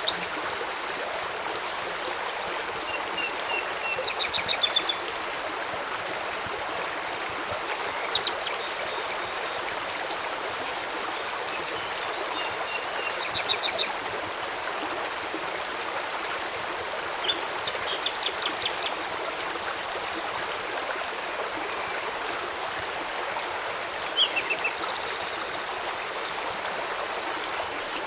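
Steady rush of flowing river water, with short chirping and trilling wildlife calls breaking in every few seconds.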